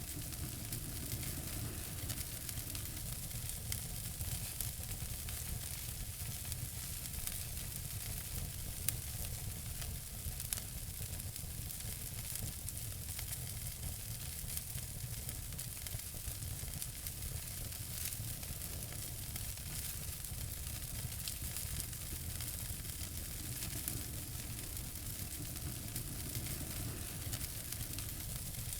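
Wood fire in a fireplace crackling, with a steady hiss and low rumble under many small snaps and an occasional louder pop.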